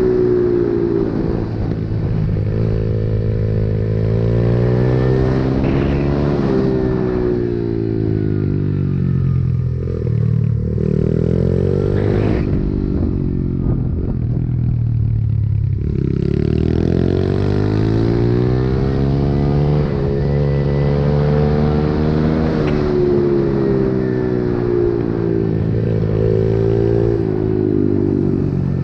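Pit bike's small single-cylinder engine being ridden hard. Its note repeatedly climbs as it accelerates, then drops off every few seconds as the rider shifts or backs off.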